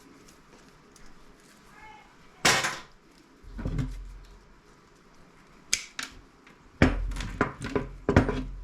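Irregular knocks and clatters of scrap parts and tools being handled on a workbench while a CRT monitor is stripped: a loud knock about two and a half seconds in, a few more, and a quick cluster of clatters near the end.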